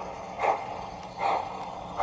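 Steam chuffs from the Proto-Sound 3.0 sound system of an MTH 3-truck Climax geared locomotive model, coming slowly and evenly, about one every 0.8 seconds, as the locomotive moves at low speed.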